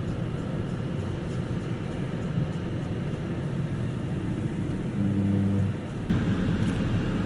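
A car on the road: steady low engine and road rumble. About five seconds in, a short low steady tone sounds for under a second.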